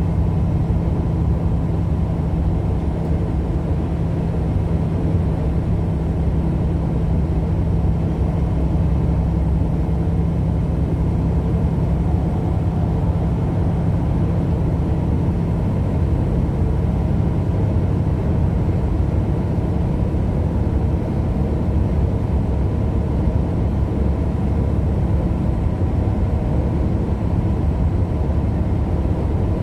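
Steady drone of a vehicle under way: engine and road rumble sitting low in pitch, with a steady low hum that shifts slightly about halfway through.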